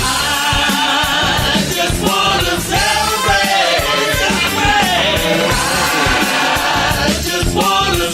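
Upbeat rock song with several voices singing together over a steady drum beat.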